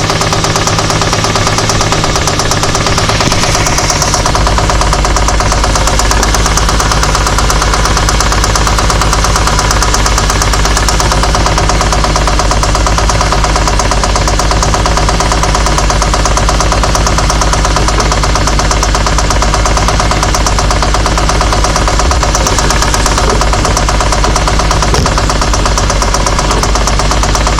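Infiniti G35's 3.5-litre V6 running with a rapid, steady knocking that follows the engine's rhythm. The low rumble grows louder about four seconds in.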